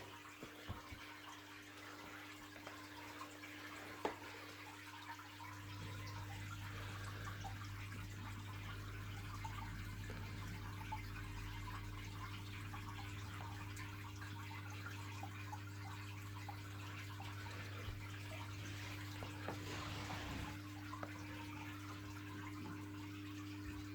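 Steady low hum with a faint trickling hiss and scattered small ticks.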